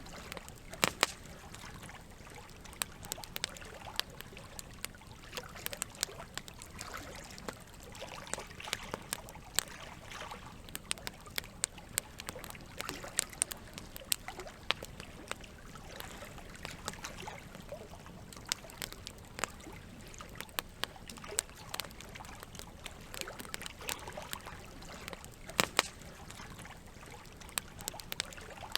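Campfire crackling, with frequent sharp pops of varying loudness, over a steady rush of flowing water. A few louder pops come about a second in and again near the end.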